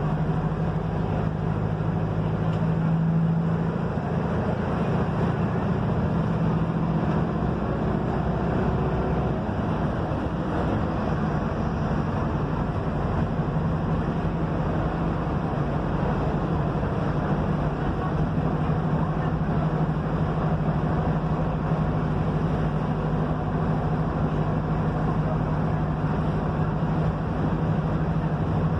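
Mercedes-Benz OF-1721 bus's diesel engine running steadily under way, its low hum holding over road and body noise.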